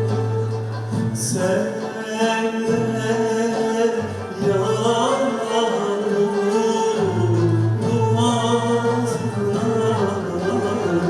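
A Turkish art-music song: voices singing a slow melody over a sustained low note and instrumental accompaniment.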